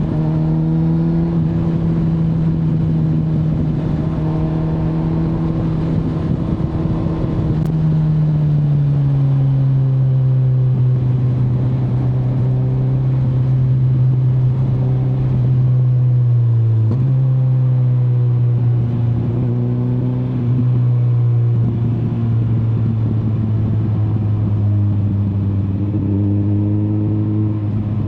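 A 2025 Kawasaki Z900's 948 cc inline-four engine running under way. Its pitch holds for several seconds, steps down about 8 seconds in, dips briefly around 17 seconds and recovers, then settles a little lower.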